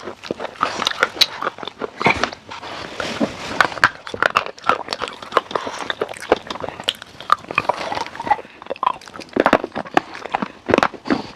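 Close-miked crunching bites and chewing of crunchy food, a dense run of sharp, irregular crackles.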